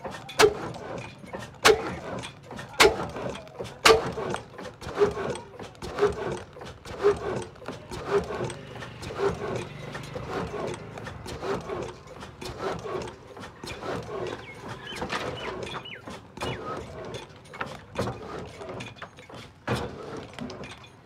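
Slow, even mechanical knocking from old diesel engine machinery, about one knock a second, with a steady hum underneath.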